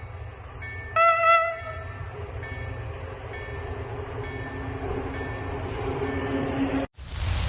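Level crossing warning signal beeping in short high tones about once a second, with a short train horn blast about a second in, over the rising rumble of an approaching train. Near the end the sound cuts out briefly and gives way to a louder rushing noise.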